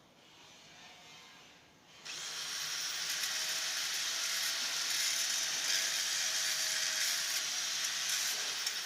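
A handheld power tool starts about two seconds in and runs steadily at speed, a loud hissing whir with a faint steady hum under it.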